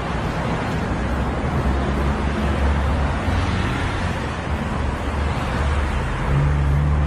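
A vehicle engine running steadily, a low hum under a constant rush of wind and road noise.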